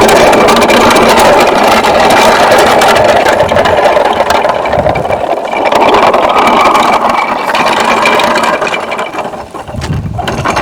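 A loud engine-like drone running steadily, swelling in the middle and weakening near the end.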